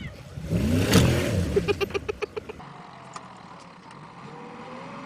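A vehicle engine revs up and drops back under load, with a sharp crack about a second in, followed by a quick run of regular knocks. After that the sound cuts to a much quieter scene.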